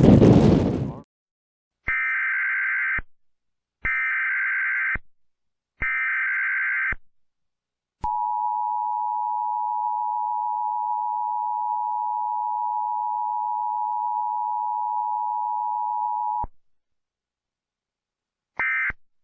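Wind noise on the microphone cuts off about a second in. An Emergency Alert System broadcast follows: three one-second bursts of SAME digital header data, then the two-tone attention signal held steady for about eight seconds. A short end-of-message data burst comes near the end.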